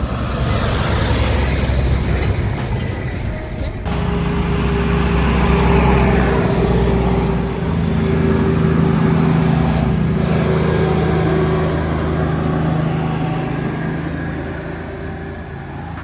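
Heavy tractor-trailer trucks running on the road, with a sudden change about four seconds in to a steady, pitched engine sound that fades slightly near the end.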